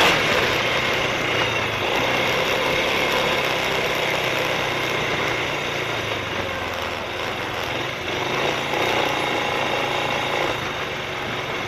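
Suzuki KingQuad ATV engine running steadily, mixed with a dense, even rush of noise.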